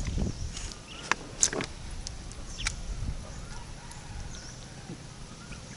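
Open-air ambience with a few sharp clicks or taps, a cluster about a second and a half in and another near the three-second mark, and faint bird chirps in the background.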